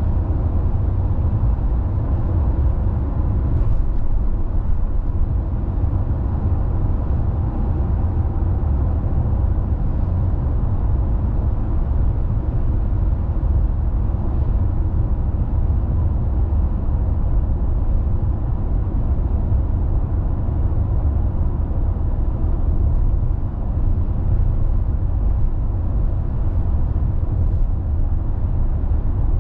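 Car driving along at an even pace: a steady low rumble of tyre and engine noise.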